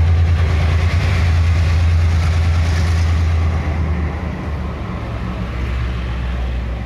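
Diesel-electric locomotive engine running with a deep, steady drone; its level drops about halfway through.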